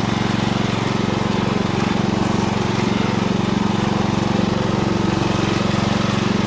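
Riding lawn tractor's small engine running steadily at an even speed.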